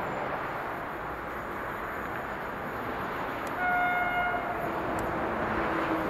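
Train horn sounding a two-tone signal over the steady noise of a train on the line. About three and a half seconds in comes a high note lasting about a second, followed by a fainter, lower note.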